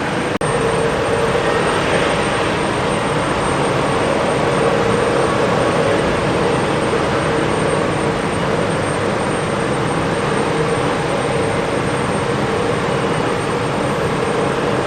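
Jet airliner engines running, a loud, steady rushing noise with a hum underneath and a thin high whine on top; it swells slightly in the first couple of seconds, then holds.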